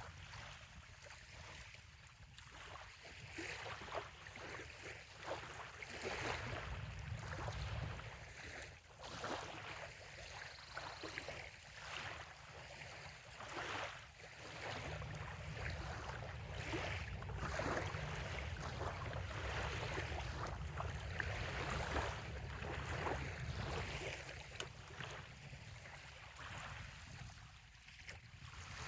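Small bay waves lapping on a sandy shore, in a run of soft irregular splashes. A low wind rumble underneath swells twice, briefly and then for several seconds.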